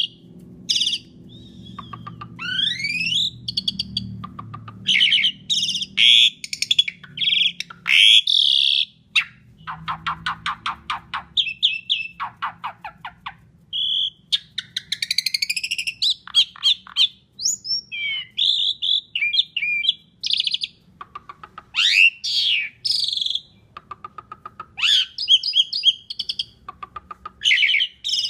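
Asian pied starling singing a long, varied song: loud whistles rising in pitch, harsh chattering phrases, and fast runs of short clicking notes.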